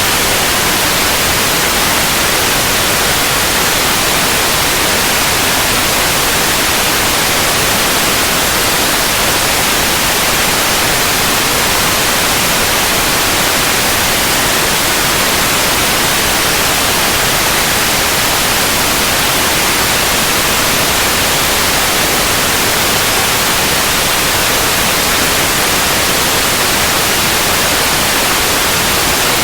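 Steady white noise: an even, constant hiss across the whole range, brightest in the upper frequencies, with no changes.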